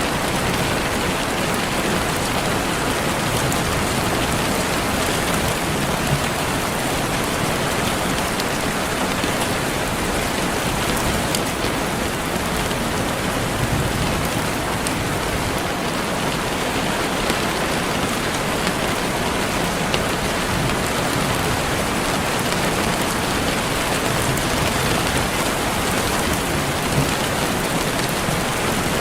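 Steady rainfall, an even hiss of rain with scattered drops ticking on a surface.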